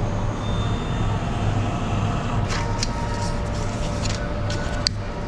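Semi truck running: a steady low engine drone, with a few light clicks, the sharpest near the end.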